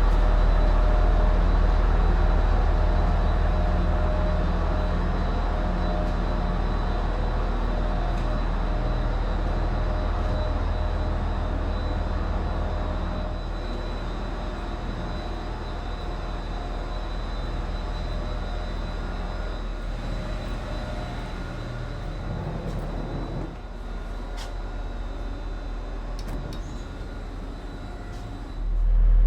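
Train running: a steady low hum and rumble with faint whining tones. It eases off partway through, dips briefly near the end, then comes back loud just before the end.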